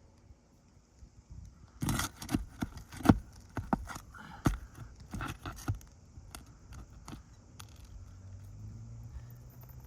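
Asphalt roof shingles being pried up and worked loose: a run of sharp cracks and scrapes from about two to six seconds in, with granules grinding off the shingle surface, then only faint scraping.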